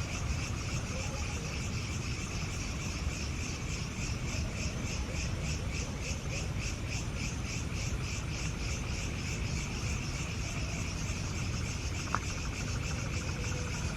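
Insects chirping in a steady pulsing rhythm, about three to four pulses a second, over a steady low rumble, with a single short click about twelve seconds in.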